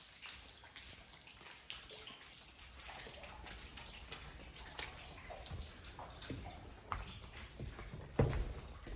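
Footsteps on debris inside a gutted house: scattered clicks and knocks about once a second, with a heavier thump about eight seconds in.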